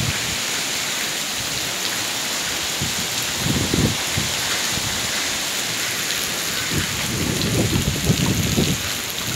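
Heavy tropical rain falling steadily, with water pouring from a drainpipe onto grass. A few short low rumbles come about three and a half seconds in and again over the last couple of seconds.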